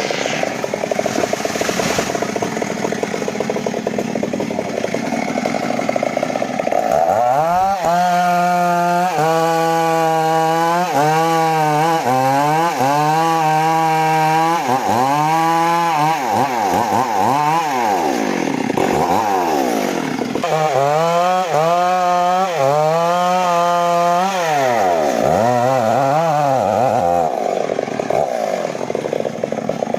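Stihl two-stroke chainsaw cutting into a gmelina tree. The engine labours in the cut at first, then revs up and down, its pitch falling back several times as the throttle is released and rising again as it is reopened.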